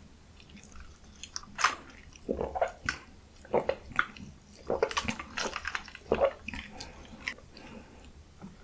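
Close-miked bites and chewing of fast food, with short crunchy crackles coming irregularly.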